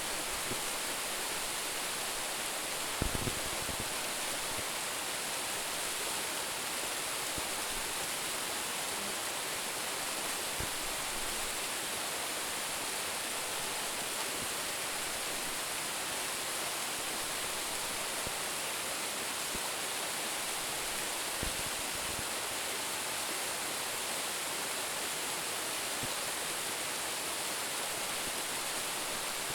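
Waterfall of about ten metres' drop, falling water rushing steadily. A brief low thump about three seconds in, and a few fainter ones later.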